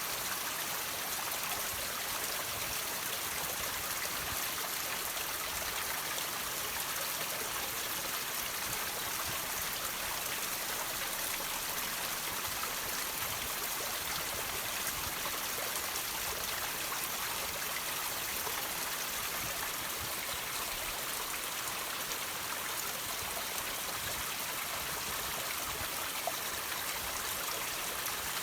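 Water trickling and dripping off rocks in a steady, even stream.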